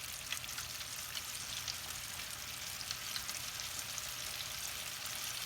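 Floured chicken nuggets frying in hot oil in an aluminum pan: a steady sizzle with small crackles and pops.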